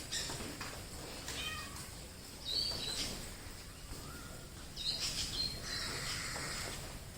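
A mix of wild birds calling, with several short, separate calls of different pitches over a steady background.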